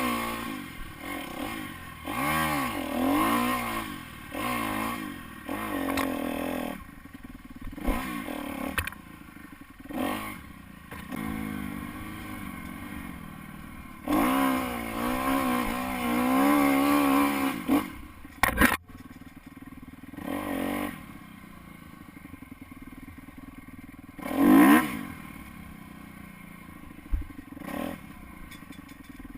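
Dirt bike engine on a trail ride, revving up and backing off over and over, with quieter off-throttle stretches between the pulls and a sharp rev about three-quarters of the way through. A brief knock comes about two-thirds through.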